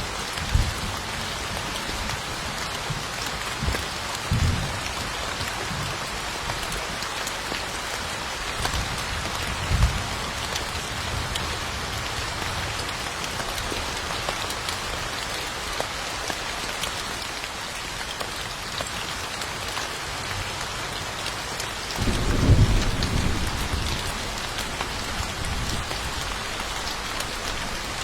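Steady rain falling, with low thunder rumbling: a few short rumbles in the first ten seconds and a longer, louder one near the end.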